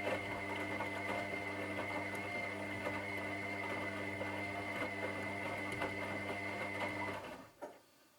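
Washing machine running: a steady motor hum with a high whine, and light ticks and rattles from the turning drum. About seven seconds in the motor stops, there is a short knock, and it goes near silent.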